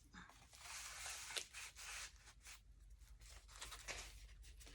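Faint rustle of thick paper as a journal page made of glued magazine pages is handled and turned, with a few small crackles after it.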